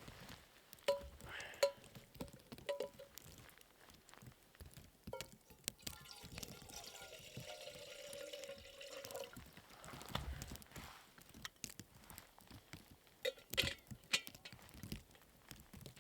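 Liquid poured into a container for about four seconds, following a few light metallic clinks. More clicks and knocks come near the end.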